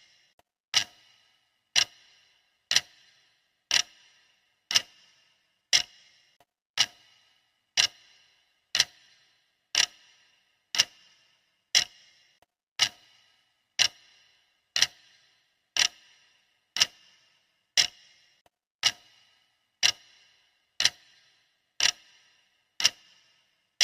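Clock ticking steadily, one sharp tick each second, each tick with a brief high-pitched ring.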